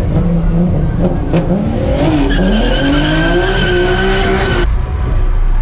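A car's engine revving, its pitch climbing, while the tires squeal with a steady high tone, as in a burnout; both stop abruptly about a second before the end.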